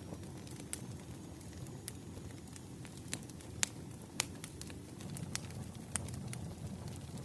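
Wood fire crackling: sharp, irregular pops over a low, steady rumble of burning logs, with the loudest pop about halfway through.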